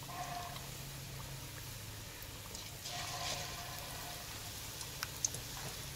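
Battered chicken pakora deep-frying in hot oil in a large aluminium pot: a steady soft sizzle with a few sharp pops about five seconds in.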